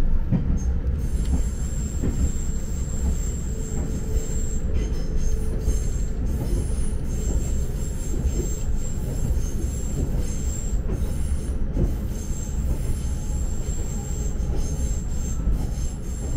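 Nagano Electric Railway Limited Express Yukemuri electric train running, heard from inside the car: a steady low rumble of wheels on track, with a thin high wheel squeal held throughout.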